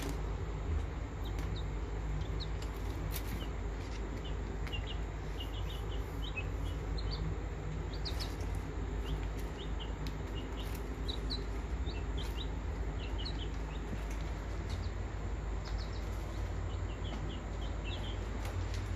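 Short, high bird chirps in quick little runs, repeating throughout, over a steady low hum.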